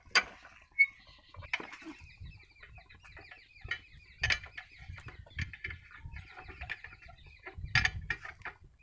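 Short, irregular bird calls mixed with clicks and scattered low knocks.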